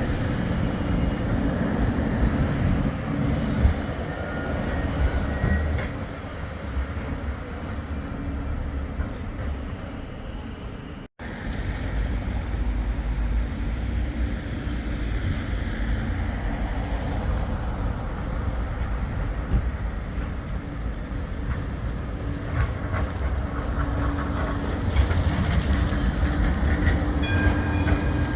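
Blackpool Flexity 2 tram running on the street track, a steady rumble of wheels on rail with faint high motor whine. The sound breaks off for an instant about eleven seconds in, then the tram running goes on.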